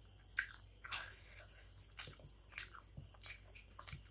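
Close-up mouth sounds of a person eating: chewing with a string of short, sharp smacks and clicks, roughly one every half second to second.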